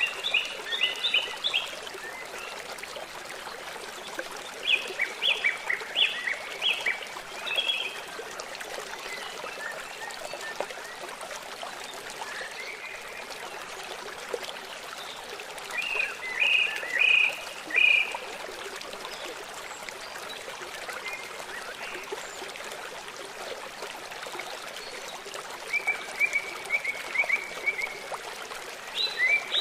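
Songbirds singing short phrases of quick, high notes that recur every several seconds, one of them a fast trill, over a steady babbling stream.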